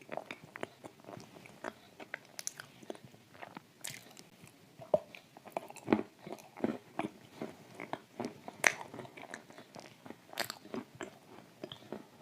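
Close-up chewing of dry shortbread cookies coated in thick clay paste: irregular crisp crunches and cracks, several sharply louder bites among them.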